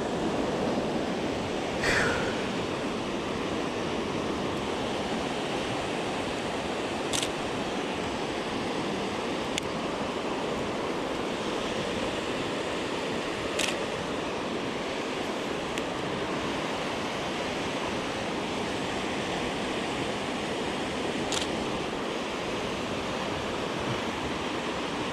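Steady rushing of the Great Falls of the Potomac River, the water running over rocks and rapids. A few short clicks stand out over it.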